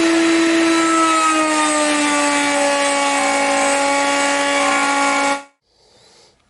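Router spinning in a router table with a steady high whine, its pitch dipping slightly about a second in as the bit takes load cutting through the wood; the sound cuts off suddenly near the end.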